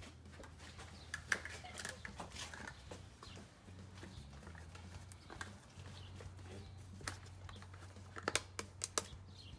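Scattered light clicks and taps of things being handled, with a quick cluster of sharper clicks near the end, over a steady low hum.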